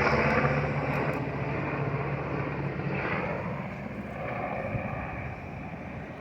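Black Hawk helicopters passing overhead, their rotor and turbine noise fading steadily as they fly away.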